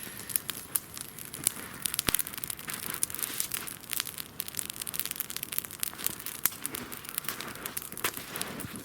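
Dense, irregular crackling and snapping of dry wood, many sharp cracks a second with a few louder pops.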